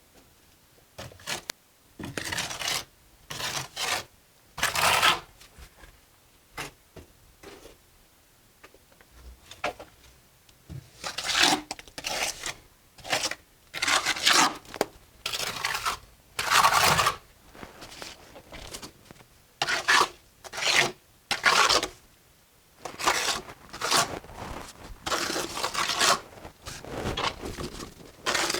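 Mason's trowel scraping mortar against brick in short, irregular strokes, with a few seconds of near quiet between the first and second bouts of work.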